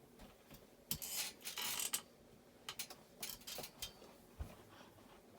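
Hunter Sea Air ceiling fan's motor humming faintly on low, with a rasping rub about a second in and a run of clicks and a thump later, mechanical handling noises at the rig.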